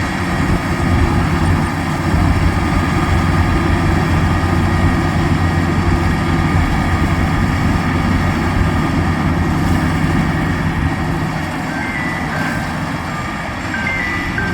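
Diesel engine of a combine harvester running steadily, with a low, even drone. A few short high tones come near the end.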